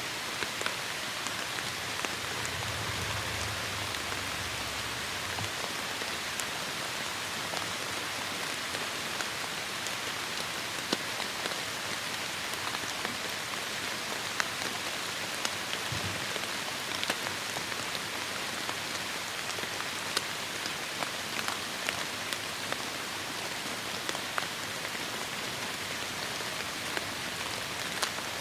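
Heavy rain falling steadily, with many separate drops ticking sharply on a nearby surface. A soft low rumble comes in a couple of seconds in and fades out a few seconds later.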